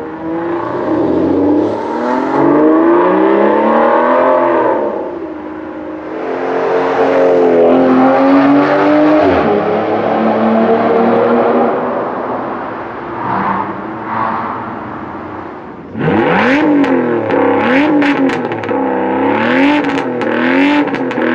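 Aston Martin Vanquish V12 engine revving. Long sweeps up and down in pitch settle into a quieter spell, and then, about two-thirds through, a sudden run of quick throttle blips comes with sharp cracks.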